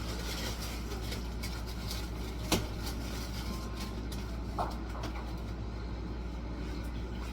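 Kitchen handling sounds from clearing out a fridge: a few light clicks and one sharp knock about two and a half seconds in, as items are moved, over a steady low hum.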